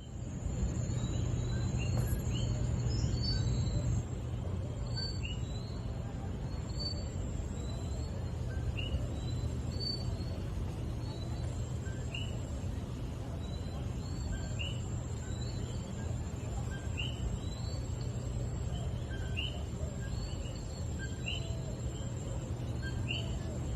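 Outdoor ambience: a steady low rumble with short bird chirps repeating every second or two, over a faint steady high-pitched whine.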